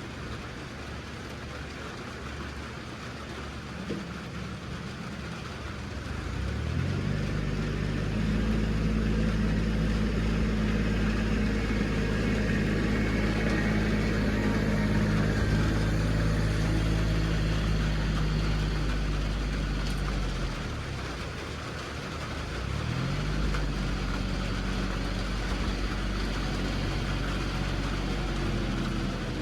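A vehicle engine running low, then revving up and holding a steady higher speed for over ten seconds, easing off briefly, then revving up and holding again.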